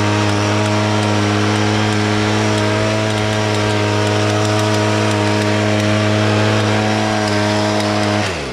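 An engine runs steadily at a constant high speed, then is switched off about eight seconds in, its pitch falling quickly as it spins down.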